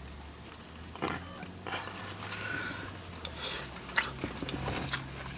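A person chewing and eating food, with a few sharp clicks about a second in and again about four seconds in.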